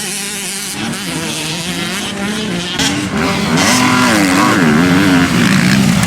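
Motocross bikes racing, their engines revving up and down as the riders work the throttle. The engines get louder about three and a half seconds in.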